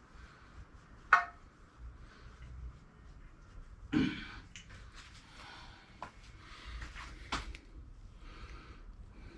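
Metal engine parts and hand tools being handled during a small-engine teardown: a sharp metallic click about a second in, a heavier knock about four seconds in, then lighter clicks and rustling.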